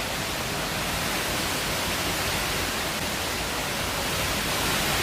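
A steady, even hiss with no pitch or rhythm.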